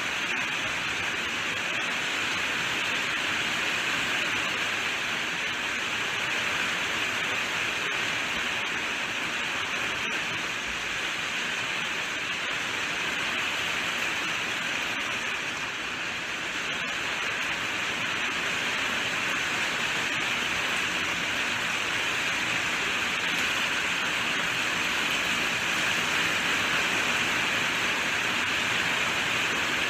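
Steady rainfall, an even hiss of falling rain with no breaks or distinct drops standing out.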